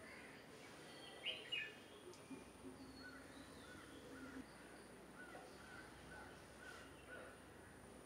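Birds calling over faint outdoor ambience: two louder calls about a second in, then a run of short repeated notes, about two a second.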